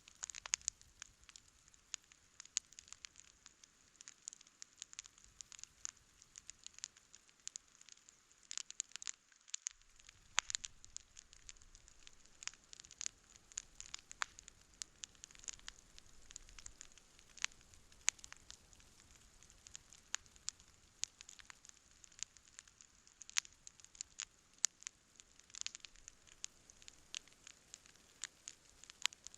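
Wood campfire crackling: a dense, irregular run of sharp pops and snaps over a faint soft hiss.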